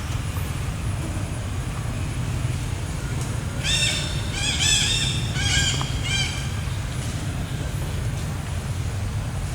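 A quick string of about seven short, high squealing calls from an animal, a little over a third of the way in, each call rising and falling in pitch. A steady low rumble runs underneath.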